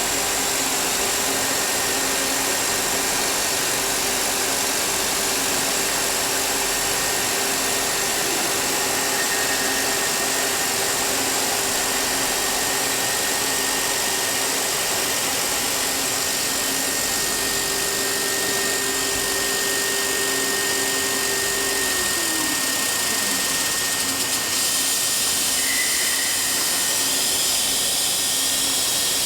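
You Ji DSM double-sided CNC milling machine running: a steady mechanical hiss with whining tones, one of which slides down in pitch about three quarters of the way through.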